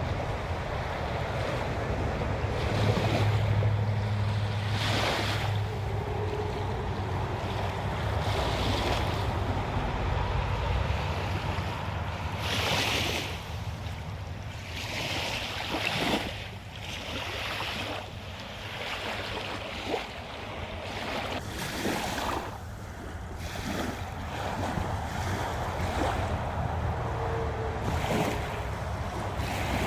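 Wind buffeting the phone's microphone outdoors: a steady low rumble with irregular gusts swelling and dropping.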